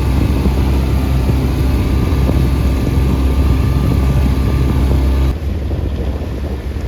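A small motorboat's engine running steadily underway, with wind and water rushing. About five seconds in, the rushing hiss drops away abruptly, leaving mostly the engine's low hum.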